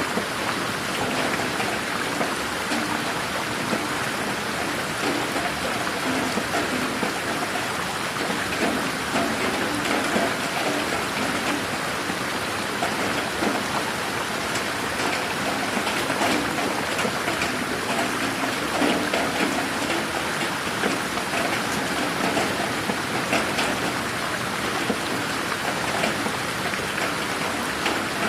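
Steady rain falling in a garden, a dense even hiss with many individual drops pattering on surfaces.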